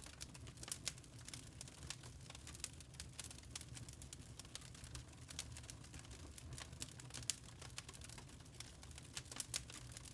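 Burning charcoal crackling: faint, irregular sharp ticks and pops, several a second, over a low steady hum.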